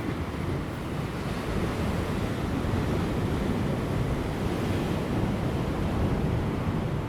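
Ocean waves breaking on offshore rocks: a continuous rushing wash that swells about a second in, with light wind.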